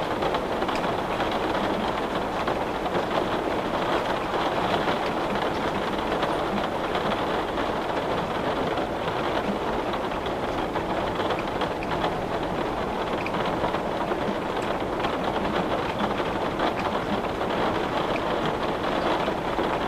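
Steady rain falling on a window: an even hiss with small scattered ticks of drops.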